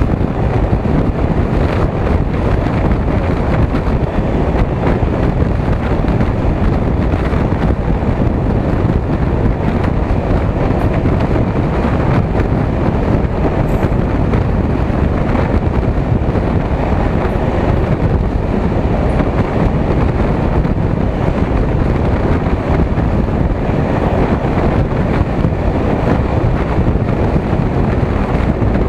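Passenger train running at speed through a tunnel, heard from the back of the last carriage: a loud, steady rush of wheel and rail noise mixed with wind buffeting the microphone.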